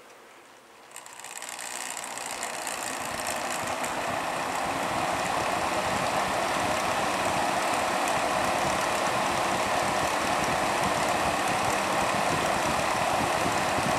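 Breezeway MBF-907 9-inch box fan switched on at its low setting: the motor spins up and the rush of air grows over the first few seconds, then runs steadily.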